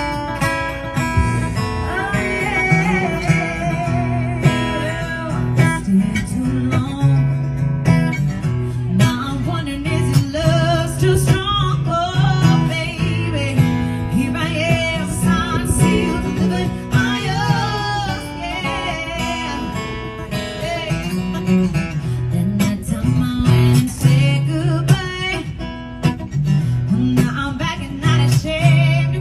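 Acoustic guitar strummed in a steady rhythm, with a wavering melody line above it.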